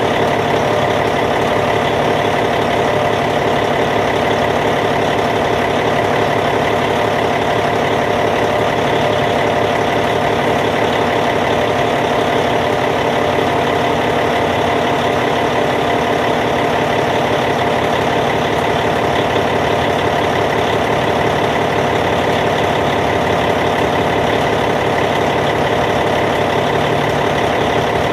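Caterpillar C15 inline-six turbodiesel of a D8T bulldozer idling steadily at an even, unchanging engine speed.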